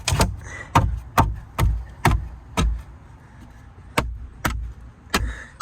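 Hammer driving nails into lumber: a run of six sharp blows about two a second, a pause of over a second, then three more.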